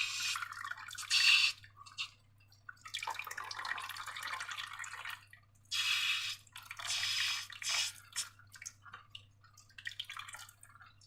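Slime being worked by hand, making wet squelching and dripping sounds in several bursts of a second or two with short pauses between them.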